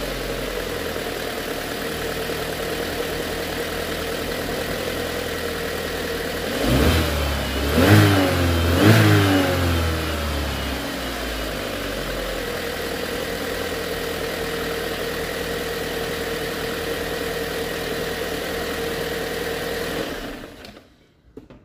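Chevrolet Ecotec twin-cam four-cylinder engine running at a steady idle after a repair, blipped three times in quick succession partway through, each rev rising and falling before it settles back to idle. It stops near the end.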